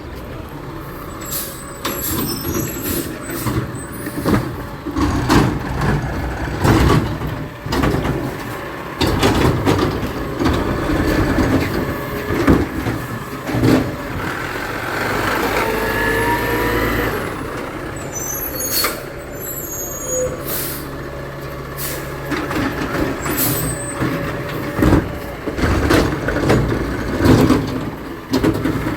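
Garbage truck at work: its engine running under many bangs and clanks, with several short air-brake hisses.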